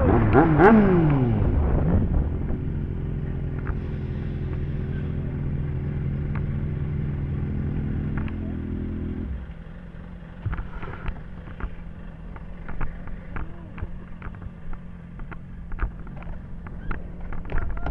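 Motorcycle engine dropping in pitch from a rev, then running steadily. About nine seconds in the engine sound falls away to a lower steady hum with scattered clicks.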